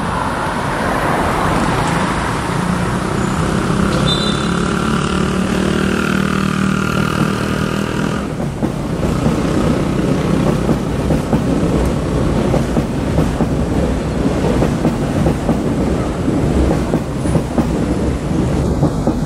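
SMRT Kawasaki C151B electric train running along an elevated concrete viaduct. A whine shifts in pitch over roughly the first eight seconds, then gives way to a steady rumble of wheels on the track.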